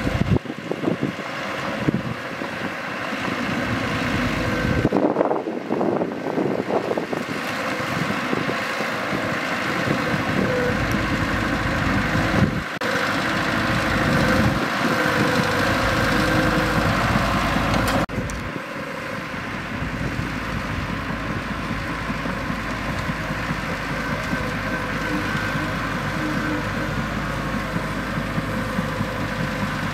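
Mitsubishi BD2G bulldozer's diesel engine running as the machine works, a steady mechanical drone that changes abruptly twice, about 12 and 18 seconds in.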